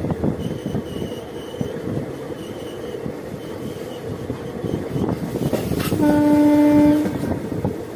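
Passenger train running at speed, heard from inside a coach: a steady rumble and rattle of wheels on track. About six seconds in, a train horn sounds one steady blast lasting about a second, louder than the running noise.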